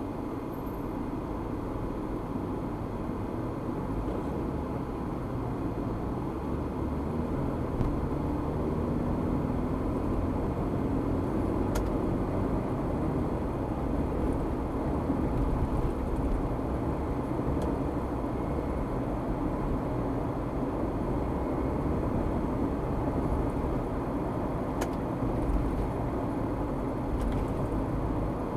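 Steady road and engine noise of a car driving, heard from inside the cabin, with two faint clicks partway through.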